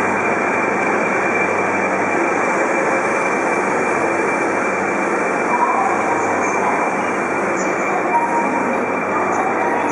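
A Shinkansen bullet train runs along the platform with a loud, steady rush of wheels and running gear. Two short squeaks come about five and a half and eight seconds in.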